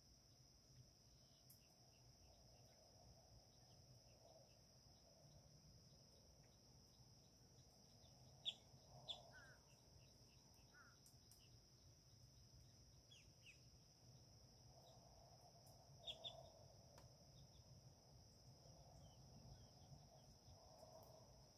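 Faint outdoor quiet with a few short, high bird chirps, loudest a little past the middle and again about three quarters of the way through, over a steady faint high-pitched tone.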